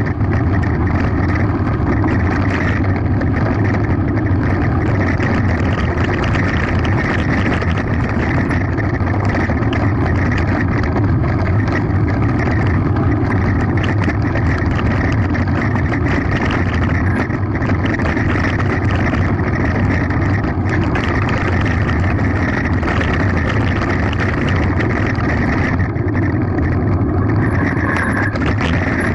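Mountain bike descending a gravel forest road at speed: a loud, steady rush of wind on the microphone mixed with tyre and gravel noise.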